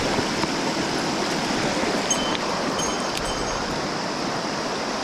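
Mountain stream water rushing: a steady, even wash of flowing water.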